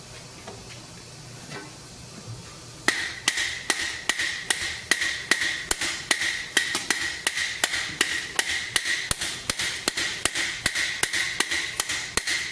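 Hammer striking the steel Topfhelm in a steady run of quick blows, about three a second, starting about three seconds in; the helm's steel rings between blows.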